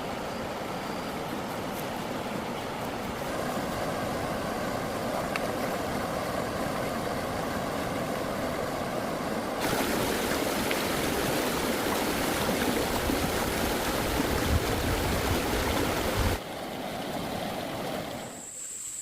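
Steady rushing noise like running water. It turns brighter and louder suddenly about halfway through and drops off abruptly near the end.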